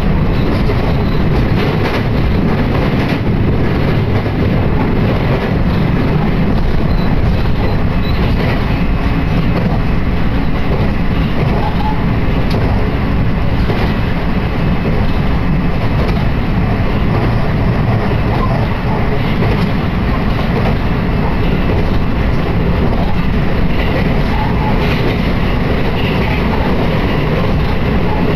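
Electric rapid train (JR Shikoku Marine Liner) running on the track, heard from inside the passenger car: a steady rumble of wheels and motors.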